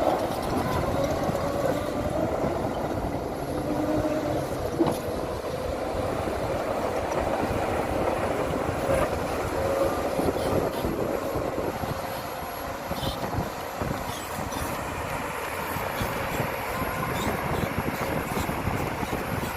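Heavy earthmoving machinery at work: a diesel engine running steadily under load, with scattered faint clicks and knocks. It eases off a little about twelve seconds in.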